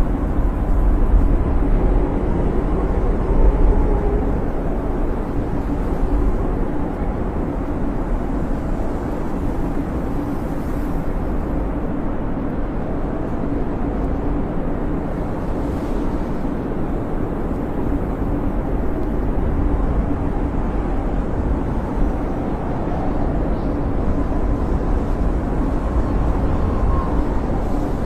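Blizzard wind howling steadily, a deep rumbling rush that swells and eases slightly in gusts.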